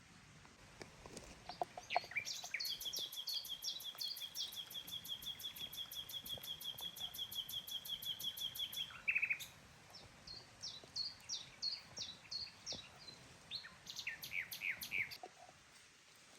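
Songbirds singing: a fast, even trill of many rapid notes for about six seconds, with repeated short high notes over it, then a looser run of short notes after a pause.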